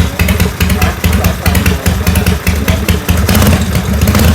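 Harley-Davidson air-cooled 45-degree V-twin engine idling with an even, pulsing exhaust beat.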